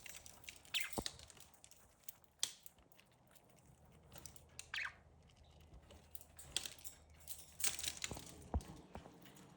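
Budgies scuffling and nibbling at gai lan leaves: scattered small clicks, rustles and tearing, with a few short high chirps.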